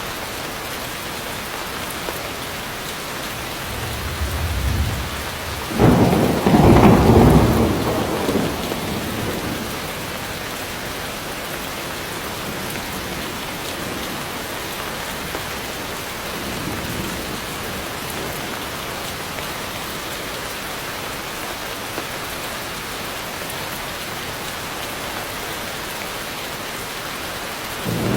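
Steady heavy rain falling, with a clap of thunder about six seconds in that rumbles away over a few seconds, and a fainter roll of thunder later.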